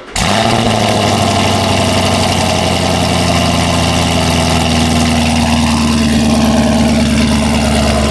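2019 Camaro SS's V8 firing up with a sudden burst just after the start, then settling into a loud, steady idle through its exhaust with the valves open.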